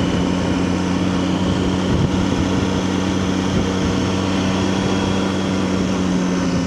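Triumph Tiger 800's inline three-cylinder engine running steadily at a constant cruise, with a steady engine hum under an even rush of noise.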